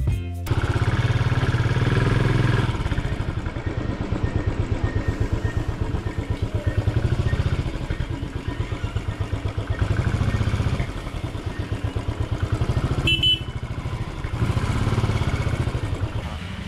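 Royal Enfield Continental GT 535's single-cylinder engine and exhaust while riding, a steady pulsing thump that swells and eases with the throttle. A brief sharp sound cuts in about thirteen seconds in.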